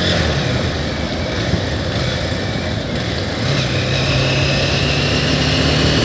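Bajaj Pulsar 220F's single-cylinder engine running as the motorcycle rides along a road at about 47 km/h, under steady wind and road rush. A steadier low engine hum comes through about halfway in.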